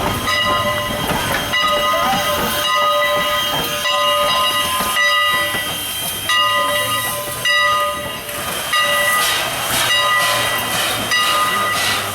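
Steam locomotive No. 89 hissing steam, with several steady high ringing tones that sound on and off in stretches of a second or two.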